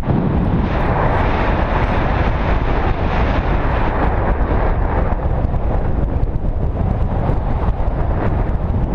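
Loud, steady rush of wind over the microphone, deepest in the low end, with no other distinct sound.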